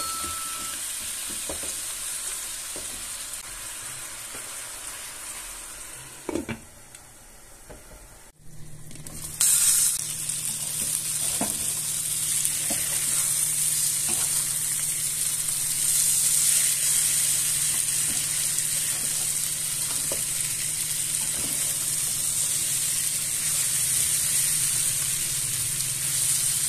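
Sliced potatoes and onions sizzling as they fry in oil in a nonstick skillet, with short scrapes and knocks as a spatula and tongs turn them. The sizzling drops away briefly about eight seconds in, then comes back louder.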